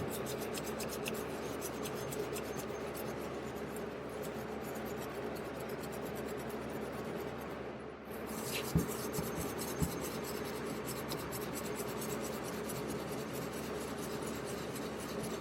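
Wire brush scrubbing thick carbon deposits off a valve from a 2006 Honda TRX250EX engine: a steady, fast scratching with a short break about eight seconds in.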